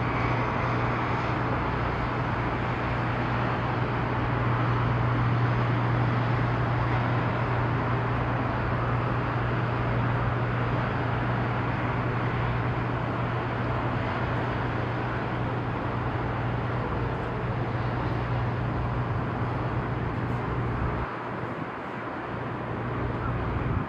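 Ship's engines droning steadily during berthing, a strong low hum under a broad rushing noise; the low hum cuts off about 21 seconds in.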